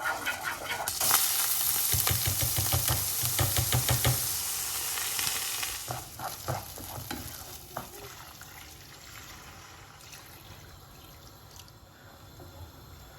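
Food sizzling in a hot pan: a loud hiss for several seconds that then dies down, with the clatter and clicks of kitchen utensils.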